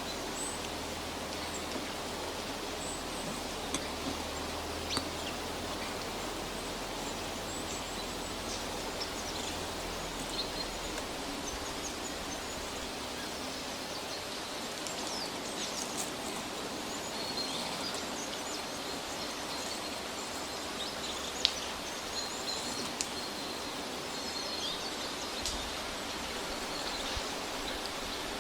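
Forest ambience: a steady hiss with scattered short, high bird chirps and a few sharp light clicks.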